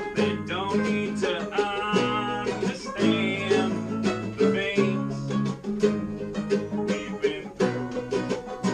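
Bluegrass band playing an instrumental passage: banjo and guitar picking, with a wavering lead melody over them during the first half.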